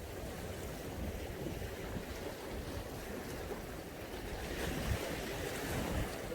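Mediterranean sea waves washing onto the shore: a steady surf hiss that swells briefly about two-thirds of the way through, with a gusty low rumble of wind on the microphone.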